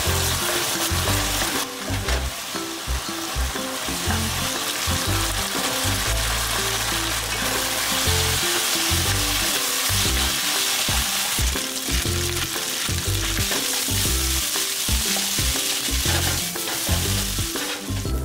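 Rice, chicken and chopped vegetables sizzling as they stir-fry in a hot wok, with a wooden spatula stirring and tossing the rice.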